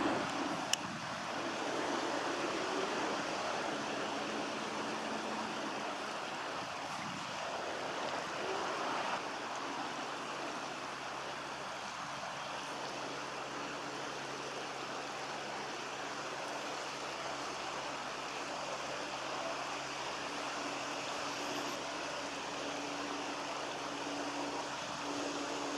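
Shallow river water running over stones: a steady rushing hiss. A single sharp click comes about a second in, and a faint low steady hum joins about halfway through.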